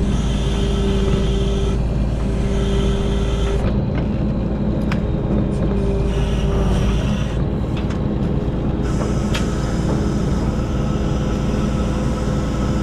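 Engine and hydraulics of a self-loading log truck's loader working steadily, the pitch shifting as the controls are worked, with a high hydraulic whine that comes and goes and a few sharp knocks.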